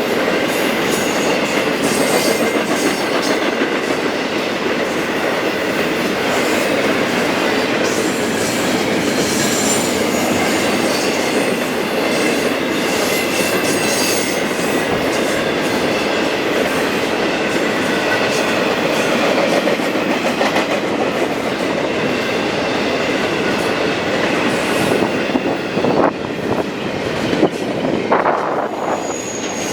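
Railroad cars rolling past in a steady rumble of steel wheels on rail, with repeated clicks over rail joints and faint high wheel-squeal tones. A few sharper knocks sound near the end.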